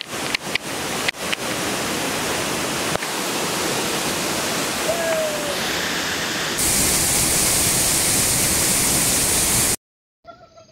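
Waterfall rushing steadily, with a few sharp clicks in the first second or so. About two-thirds in it turns louder and hissier, then cuts off abruptly near the end.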